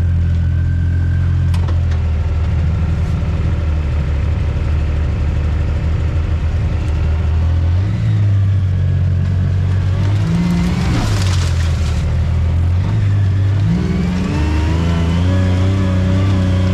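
Off-road side-by-side engine running under way, its note stepping up and down several times as the throttle changes. A brief rush of noise comes about eleven seconds in.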